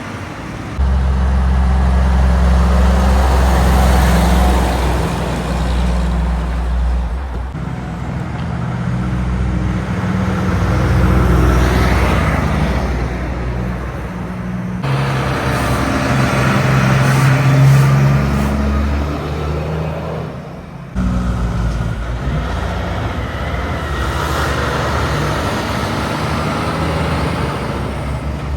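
Road traffic with heavy trucks and cars passing: engines droning low and tyres hissing, swelling and fading as vehicles go by. The sound changes abruptly several times.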